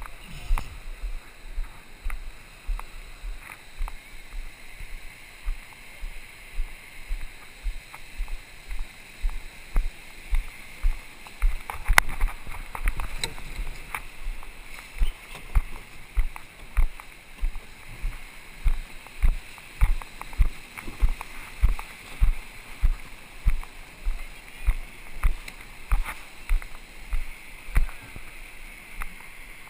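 Surf boat being rowed hard: a low thud with each oar stroke, a little faster than one a second and steady in rhythm, over a constant hiss of water rushing past. The thuds become louder from about halfway through.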